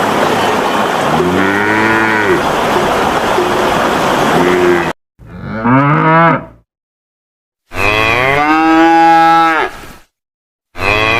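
Cattle mooing. One low moo over a steady rush of water is followed, after an abrupt cut, by separate moos with dead silence between them. The second of these is long and drawn out, and another begins near the end.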